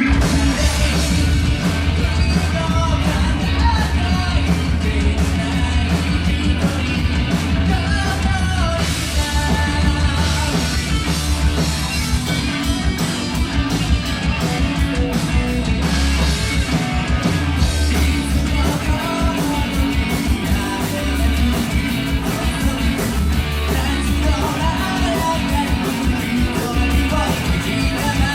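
Rock band playing live, with a lead singer over guitars, bass and drums at a steady driving beat.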